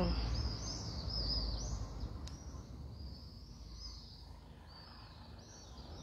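Birds chirping, short high calls repeating again and again, over a low rumble that fades away during the first few seconds.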